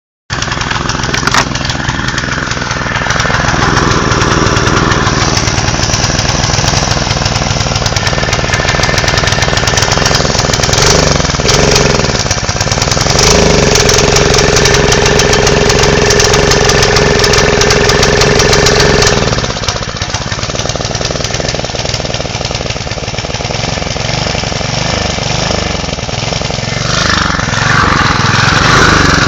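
Kawasaki FA210D small single-cylinder petrol engine running. It runs higher and louder with a steady tone for several seconds midway, drops back, then picks up again near the end.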